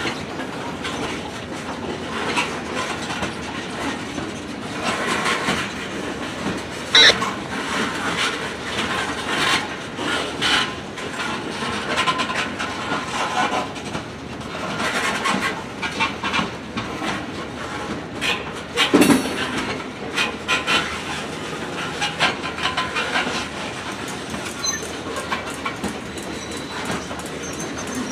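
Freight train cars rolling past on the rails: a steady rattle of wheels clicking over rail joints. Two sharp bangs stand out, one about seven seconds in and a louder one about nineteen seconds in.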